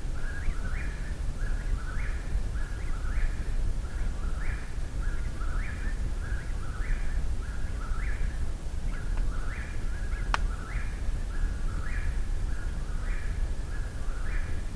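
Eastern whip-poor-will singing close by, its rising phrase repeated about once a second without a break. A single sharp click comes about ten seconds in, over a steady low rumble.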